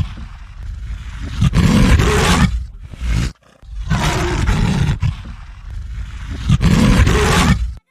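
A big cat roaring again and again, each rough roar about a second long and a couple of seconds after the last.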